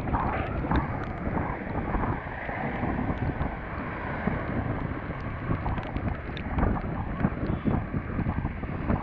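Wind rushing and buffeting over the GoPro's microphone on a Honda CBR250R moving at speed in the rain, with scattered sharp ticks throughout.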